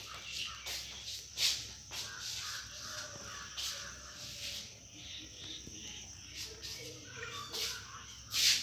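Bird calls: short, harsh calls repeating at uneven intervals.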